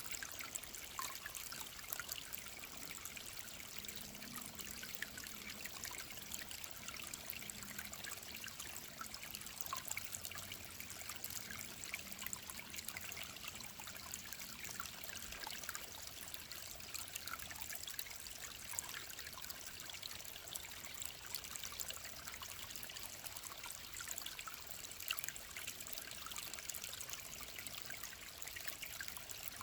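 Mountain stream trickling steadily: a dense, even patter of small splashes.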